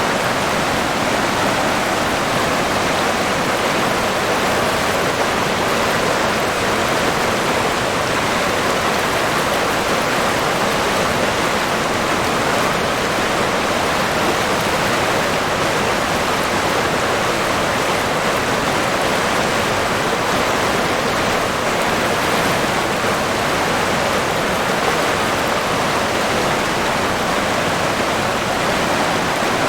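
River water flowing, a steady, unbroken rushing with no changes.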